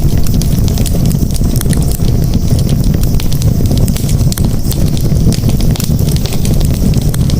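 Campfire burning with a steady low roar and frequent sharp crackles and pops.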